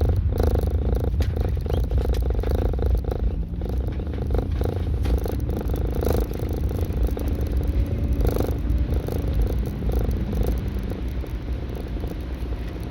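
Low, fluttering rumble of wind buffeting the microphone, steady throughout.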